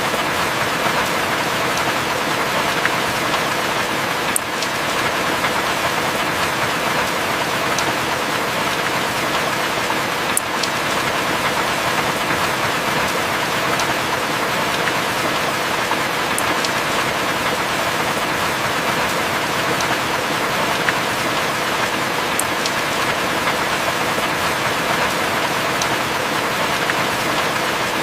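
Heavy rain falling steadily, an even dense hiss with a few sharp drip ticks scattered through it.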